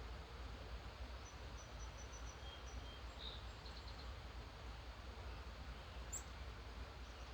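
Faint wild birds calling in the early morning: a few short chirps and quick runs of notes, and one sharp high call about six seconds in, over a steady background hiss and low rumble.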